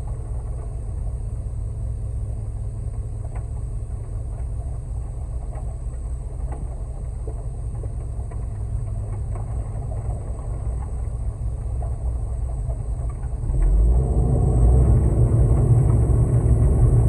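Concrete mixer truck's diesel engine running with a steady low rumble, turning noticeably louder about three-quarters of the way through.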